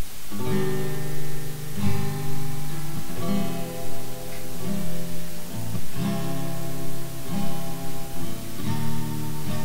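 Acoustic guitar strumming slow, ringing chords, about one strum a second.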